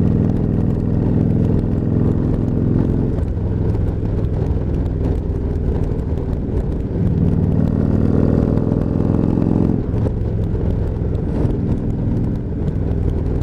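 Motorcycle engine running under way, recorded on the rider's mic. The note is strong, drops off about three seconds in, climbs again under throttle from about seven seconds, and drops once more near ten seconds.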